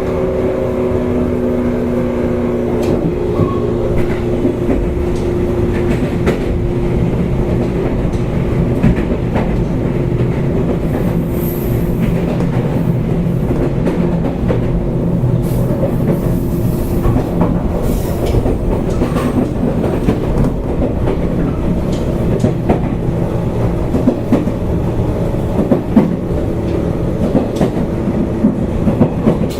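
Running sound heard aboard a JR East 185 series electric multiple unit, recorded in a motor car: a steady rumble of wheels on rail with a hum from the traction motors and irregular clacks as the wheels pass rail joints.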